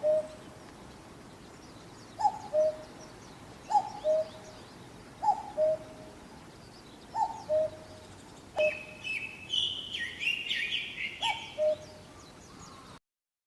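A bird repeating a two-note falling call, six times at intervals of about one and a half seconds. A second bird sings higher, quicker phrases for a few seconds about two thirds of the way in, over faint outdoor background.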